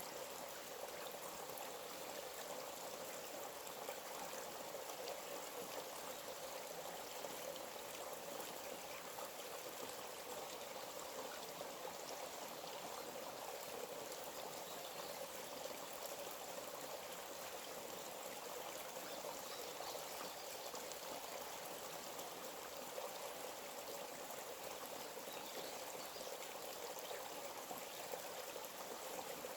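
Forest stream running steadily: a continuous, even rush of flowing water.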